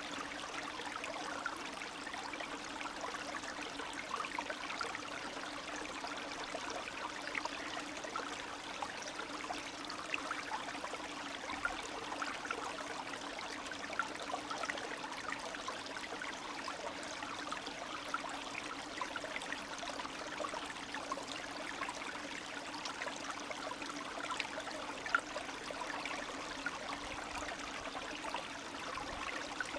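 Spring stream running over stones: a steady babble and trickle of water with small splashes.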